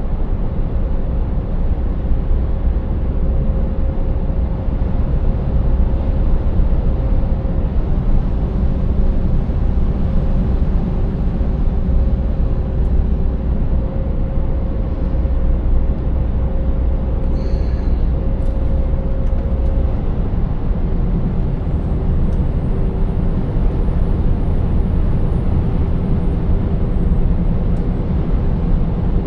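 Scania 590S truck's V8 diesel engine running steadily at road speed, with tyre and road noise; a faint hum in it drops a little in pitch about two-thirds of the way through.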